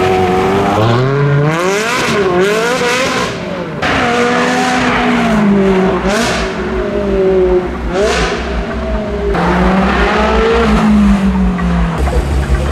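Ferrari 360 Challenge Stradale's V8 engine revving, its pitch climbing and dropping several times over, with a few sharp rasping flares on the way up.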